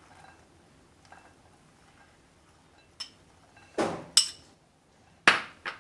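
Kitchenware clinking: four or five sharp knocks of a utensil against a bowl or dish in the second half, as salad ingredients are added.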